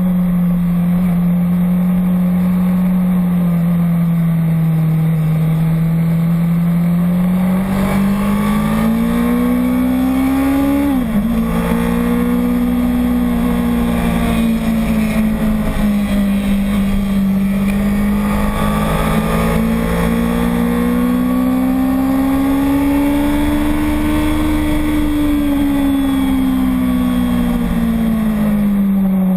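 Racing motorcycle engine running hard at track speed, one steady note slowly climbing and falling in pitch, with a quick sharp dip in pitch about eleven seconds in, over a low rumble.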